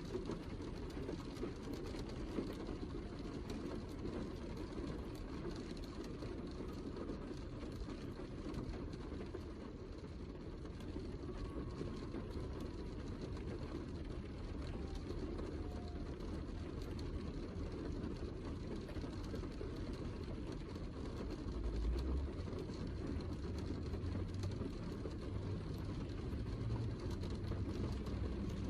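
Heavy rain falling steadily, a dense, low-pitched rushing. About three quarters of the way through, a deeper low rumble comes in and stays.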